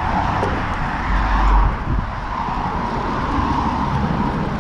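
Road traffic going past: a steady rush of tyre noise, with a low rumble about a second in.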